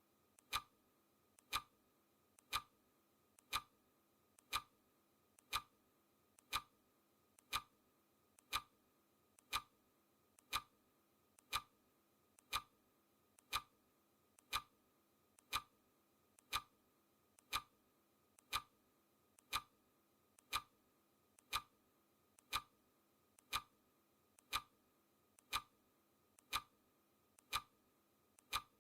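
Clock ticking sound effect: a crisp tick once a second, each with a faint click just before it.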